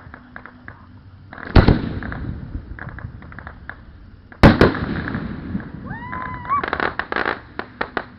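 Aerial fireworks: two loud shell bursts with a long rolling rumble after each, about a second and a half in and again about four and a half seconds in, then a brief whistle and a quick run of sharp crackling pops near the end.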